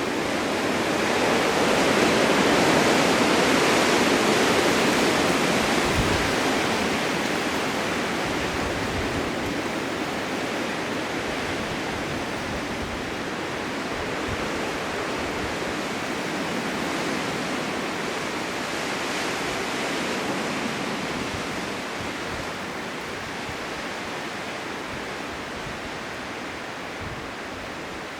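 Blizzard wind blowing as a steady rushing hiss, swelling loudest a few seconds in and then slowly easing off.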